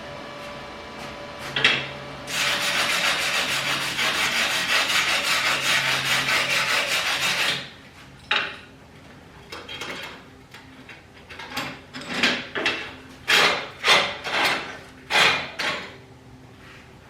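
Primeweld MIG 160 welding with gasless flux-core wire: the arc crackles steadily for about five seconds, starting about two seconds in, over the machine's low hum. Then comes a run of short, uneven scraping strokes on the metal.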